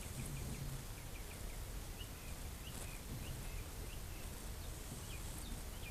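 Faint, short chirps of a bird, a couple each second, over a steady low background rumble.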